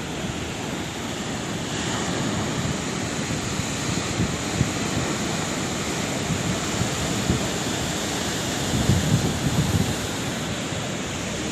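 Sea waves breaking and washing in a steady rush of surf, swelling louder about nine seconds in.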